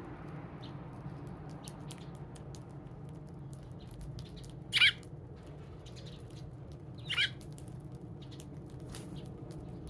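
Two short chirps from a Eurasian tree sparrow, about two and a half seconds apart, over a scatter of faint ticks and a low steady hum.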